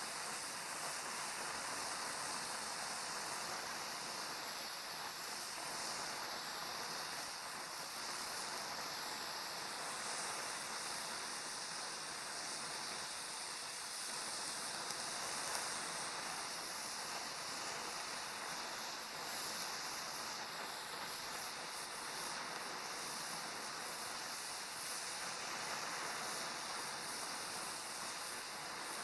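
Oxyacetylene welding torch flame hissing steadily while a bead is laid. It is an even, constant hiss with no breaks.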